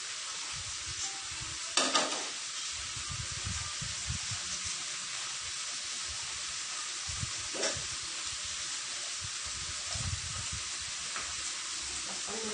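Ox tripe and vegetables sizzling steadily in a frying pan on a gas stove. A sharp clatter comes about two seconds in, the loudest moment, and a lighter knock near eight seconds.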